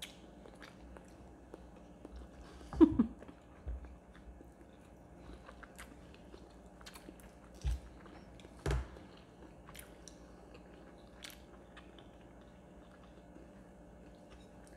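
Chewing and biting into crispy fried chicken, with scattered small crunchy clicks. A short voiced sound comes about three seconds in, and two low thumps come near eight and nine seconds in.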